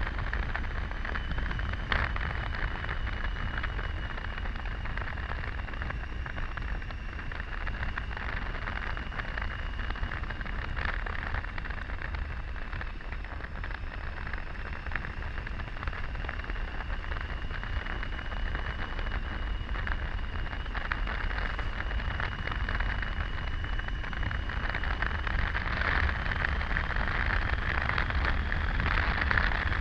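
Steady rush of wind over the microphone, with road and engine noise from a Triumph Tiger 800 motorcycle riding along at a constant speed.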